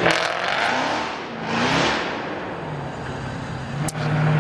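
A car engine revving: the pitch rises and falls about halfway through, then settles into a steady engine note near the end, with a sharp click just before it.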